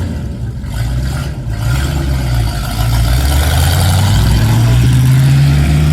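Car engine pulling away under acceleration, its pitch rising steadily and growing louder about halfway through.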